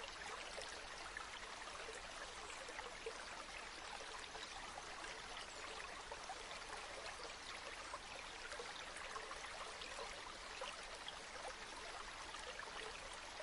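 Stream water flowing steadily, a continuous fine babble and splashing with no change in level.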